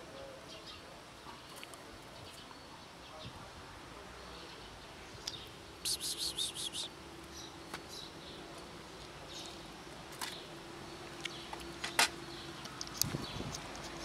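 Quiet ambience with a quick series of small-bird chirps about six seconds in, a faint steady hum through the middle, and a few sharp clicks.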